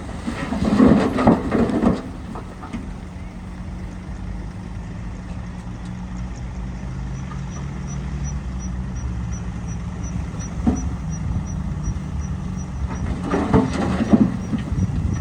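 Shantui DH17C2 crawler bulldozer's diesel engine running steadily under load, with bursts of clanking and rattling from the tracks and blade about a second in and again near the end.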